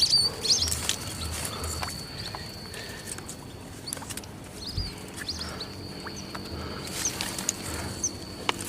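Small birds chirping in short high squeaky notes, with scattered clicks and a steady high-pitched whine that stops for a couple of seconds midway.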